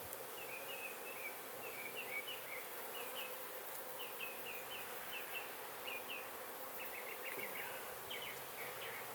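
Honey bees buzzing steadily around an open hive.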